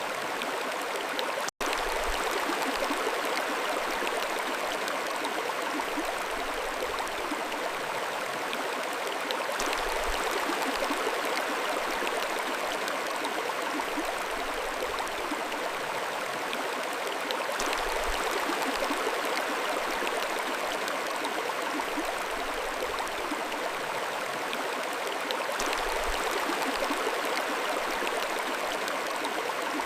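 Mountain stream flowing steadily, with gentle swells in the rush of water and one momentary cut-out about a second and a half in.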